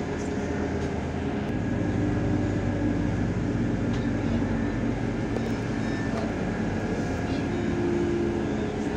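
SA139 diesel railcar running steadily, its engine drone and wheel-on-rail rumble heard from aboard.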